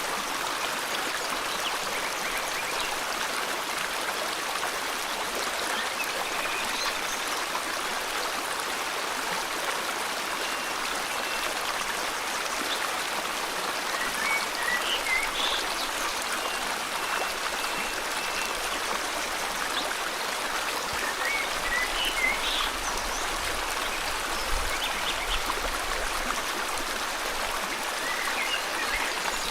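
A river flowing steadily, with birds chirping briefly now and then over it: a few short calls around the middle and near the end.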